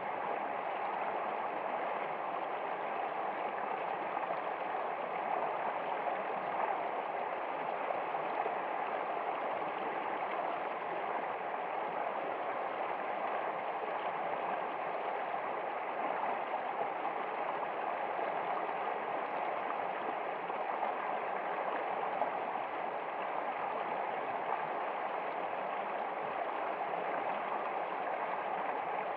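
Flowing stream water, a steady, even rush that does not change.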